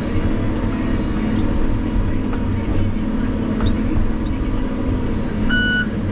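Heavy logging machine's engine running steadily with a low rumble. Near the end a backup alarm starts beeping, about two beeps a second.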